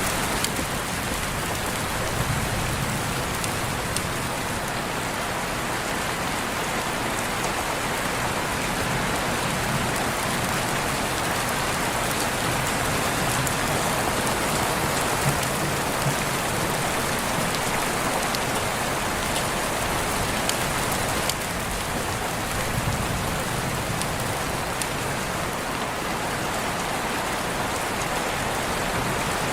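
Steady heavy rain falling as a dense, even hiss, with a few sharper single drop ticks.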